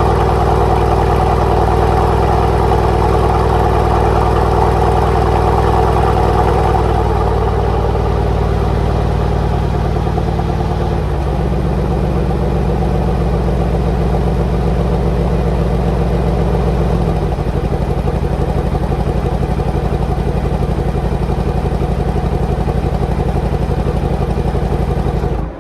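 Mercedes-AMG C63 S's twin-turbo V8 exhaust idling steadily after a cold start in Comfort mode. The idle note shifts about 11 seconds in and again about 17 seconds in.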